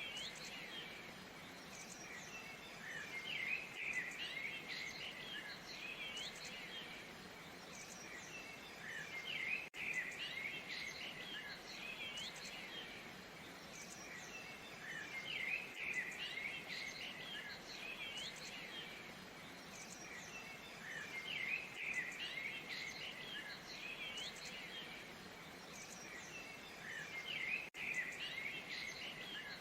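A waterfall's steady rush, with small birds chirping and twittering over it in bursts every few seconds.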